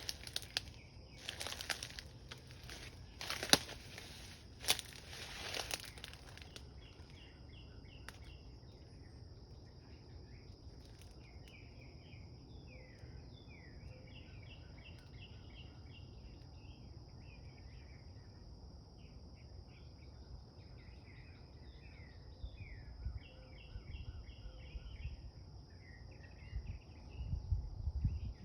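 About five crunching footsteps on dry ground in the first few seconds, then outdoor ambience of small birds chirping busily over a steady high-pitched insect drone.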